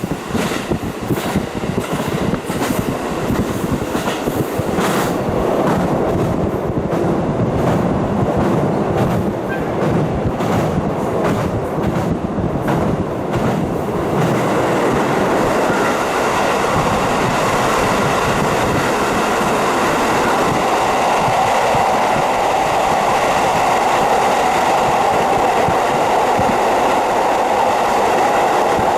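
KiHa 40 diesel railcar running, heard through a fully open window: wheels clicking over rail joints through the first half, then about halfway through a steadier running noise with a hum.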